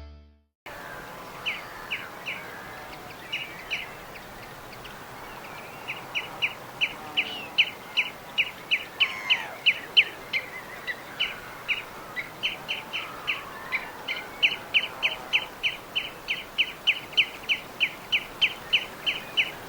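Small birds chirping: a long series of short, sharp chirps, sparse at first and then coming quickly and steadily, about two or three a second, over a faint outdoor background. The tail of music cuts out in the first moment.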